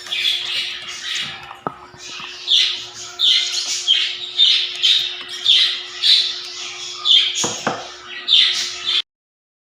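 Young African lovebirds squawking: repeated harsh, shrill calls about twice a second over a faint steady hum. The calls cut off suddenly near the end.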